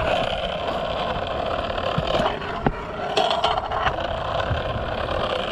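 Skateboard wheels rolling steadily on a concrete skatepark bowl, with a few sharp clacks from the board about two to four seconds in.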